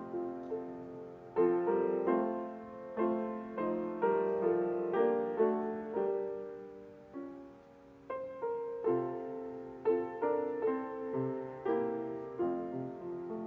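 Piano playing slow chords, each struck and left to fade, with a softer stretch about halfway through.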